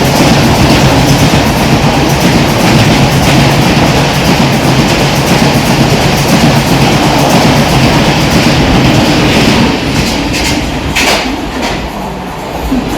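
A train passing close by at speed, loud and steady, then dropping away over the last few seconds.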